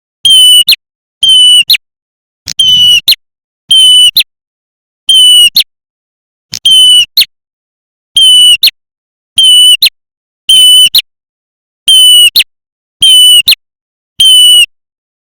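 Looped lure recording of a prenjak merah klawu (ashy tailorbird) calling: a loud, harsh, ringing note about half a second long that ends in a quick upward flick. It repeats evenly about once a second, thirteen times, and sounds overdriven.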